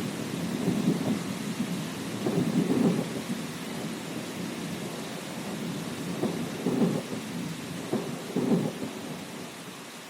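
Rolling thunder rumbling in several swells over steady rain, dying away toward the end.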